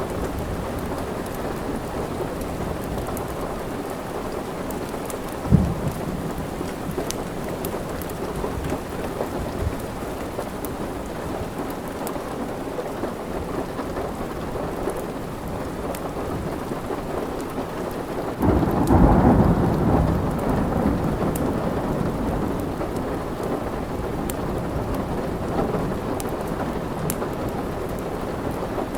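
Steady rain with a roll of thunder that swells up about two-thirds of the way through and fades slowly, plus a single sharp low knock about five seconds in. Faint ticks of a crackling wood fire run through it.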